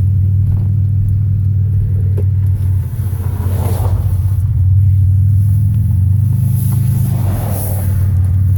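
Steady low rumble of a vehicle's engine and road noise while driving, with two brief swells of noise, one a little over three seconds in and one near the end.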